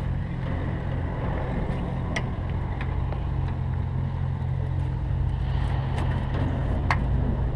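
A steady low engine-like drone with a few sharp clicks of hand tools working the oil filter's lock wire.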